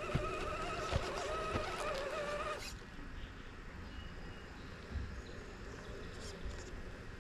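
Dog whining in a long, wavering, high-pitched tone that stops abruptly about two and a half seconds in.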